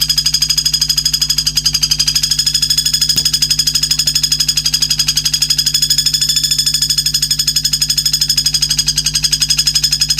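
A songbird's rapid, even buzzing trill, held unbroken with many pulses a second, over a steady low hum.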